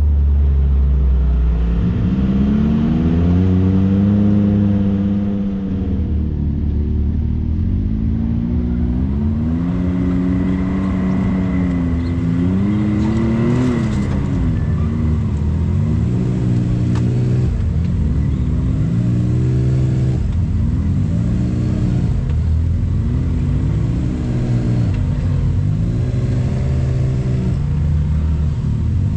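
Side-by-side UTV engine running under load on a trail, its pitch rising and falling again and again as the throttle is worked.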